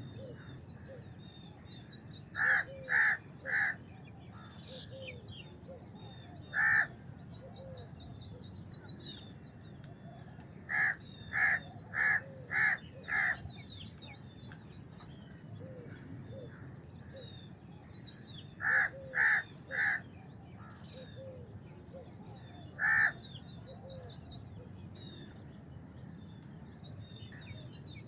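House crow cawing in short bouts: three caws, then a single caw, a run of five, three more, and one last caw. Small birds chirp steadily and quickly in the background throughout.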